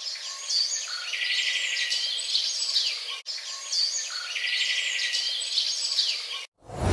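Birdsong sound effect: birds chirping with a fast trill, the same short clip played twice back to back. Near the end it cuts off and a loud, low, deep sound begins.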